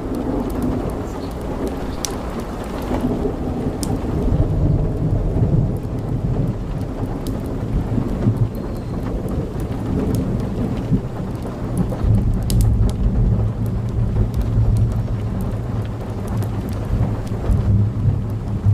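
Strong wind blowing through trees and rumbling on the microphone in uneven gusts, with scattered sharp ticks.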